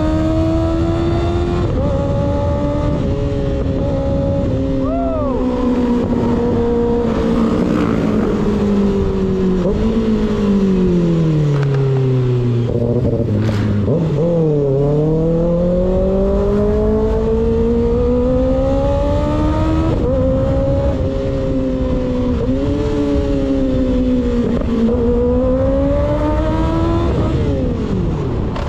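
Motorcycle engine with an unbaffled slip-on exhaust, pulling up through the gears with short dips at each shift, then dropping to a low note around the middle as the bike slows before climbing steadily again. Wind rush runs underneath.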